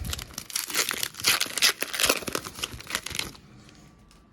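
A foil Pokémon Cosmic Eclipse booster pack being torn open by hand, the wrapper crinkling and crackling for about three seconds before it stops.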